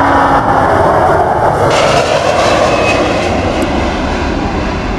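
Airbus A330 airliner's jet engines: a loud, steady rushing noise that gains more hiss about two seconds in.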